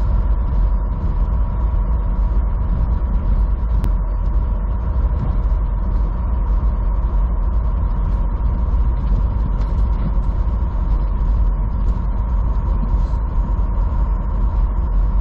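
Semi truck engine running steadily, heard from inside the cab as a deep, even drone with a steady hum above it while the truck moves slowly.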